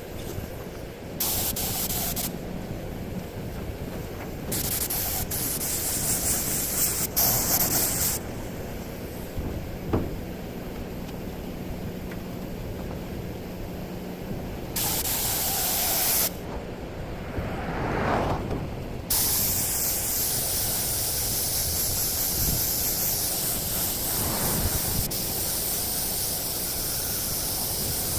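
Compressed-air paint spray gun hissing in several short bursts of one to three seconds, then a long unbroken pass of about nine seconds near the end.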